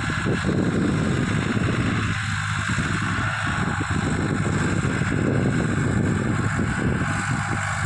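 Tractor diesel engine running steadily, with wind buffeting the microphone.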